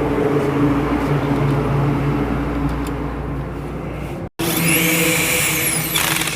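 Electric power tool running while the engine's guard is fastened: a steady motor hum, broken off briefly a little over four seconds in, then running again with a high whine that rises and falls.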